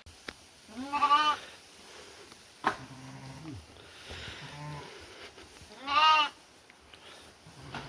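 Livestock bleating: two loud, wavering bleats about five seconds apart, with deeper, shorter calls and a sharp click between them.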